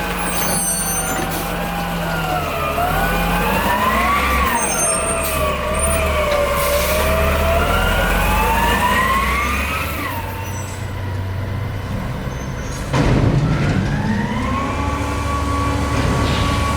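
Garbage truck's diesel engine running under load, with a wavering whine from the hydraulics that rises and falls for the first ten seconds or so. About thirteen seconds in there is a sudden loud burst of noise, then a steadier whine.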